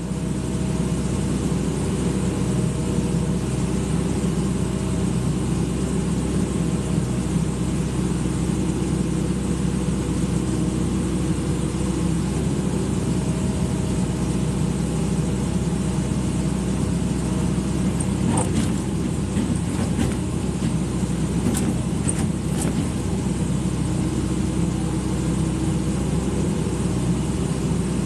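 Excavator's diesel engine running steadily, with a few sharp metallic knocks a little past the middle.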